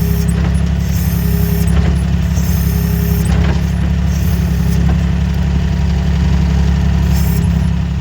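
Engine of a farm vehicle running steadily with a deep, even hum, with short higher-pitched rattles coming and going every second or so.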